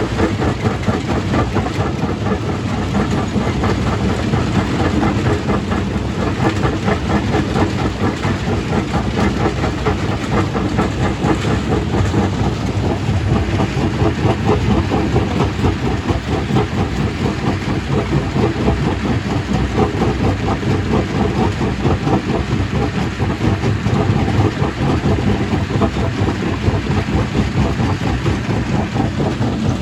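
Stone crushing machine running, breaking rock into gravel: a steady heavy rumble under a continuous dense clatter of rock.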